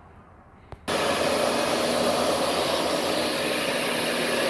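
Shop vac switched on with a click about a second in, then running steadily with a motor whine.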